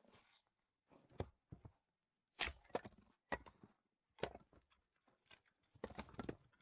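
Pieces of firewood being handled: irregular light knocks and cracks, the sharpest a couple of seconds in and near the end.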